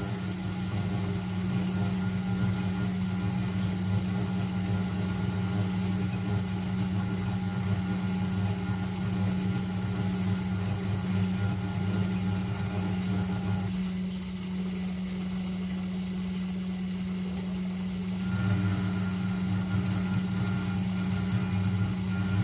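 Late-1980s Eudora Supernova EU 1001 washing machine running with a steady machine hum. About two-thirds of the way through, part of the hum drops away for several seconds and then comes back.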